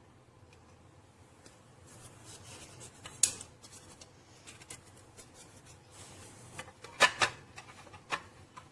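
Objects being handled: rubbing and scraping with several sharp clicks, one about three seconds in and a quick pair around seven seconds in, over a faint steady hum.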